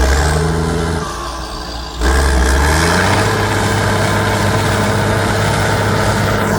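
Heavy off-road trial truck's engine: it eases off about a second in, then opens up sharply about two seconds in, its pitch rising, and holds at a steady high rev under load.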